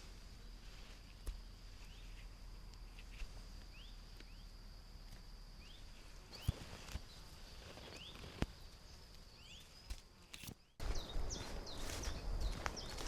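Outdoor woodland ambience: small birds give short rising chirps every second or so over a steady high-pitched ringing, with a few sharp clicks. Near the end the sound cuts to a louder stretch with more chirps over a low rumble.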